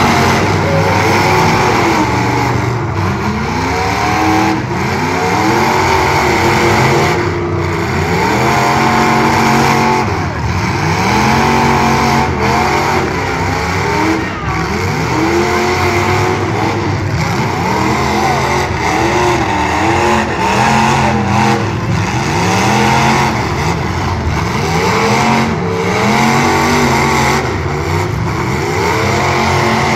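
Several full-size demolition derby cars' engines revving hard over and over, their pitch climbing and falling every second or two as the drivers floor it and back off while ramming each other.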